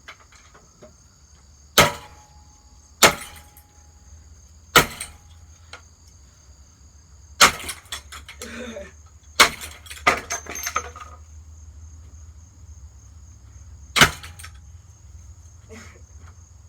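Hammer blows on a Hampton Bay ceiling fan: six sharp strikes a second or more apart, some leaving a brief ring, with a rattle of loose parts about ten seconds in. Crickets chirp steadily underneath.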